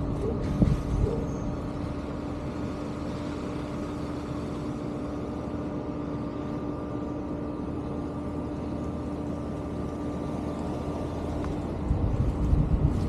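A motor vehicle's engine running steadily with a constant hum, and rough gusts of wind buffeting the microphone near the start and again near the end.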